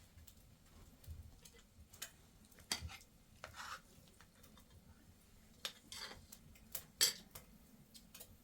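Irregular light clicks, knocks and short scraping swishes of hard objects being handled, the loudest knock about seven seconds in.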